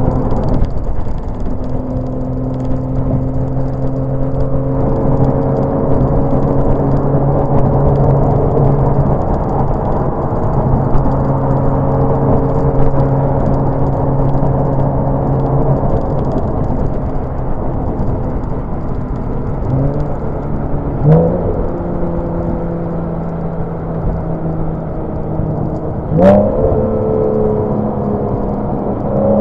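Porsche 987 Boxster's flat-six engine running at steady cruising revs, its pitch rising briefly a couple of times in the last third as the revs pick up.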